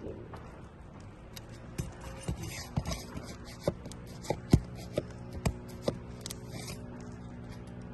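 Hand tools working on 3-tab asphalt shingles: sharp clicks and scrapes at irregular intervals, a dozen or so in all, over a steady low hum.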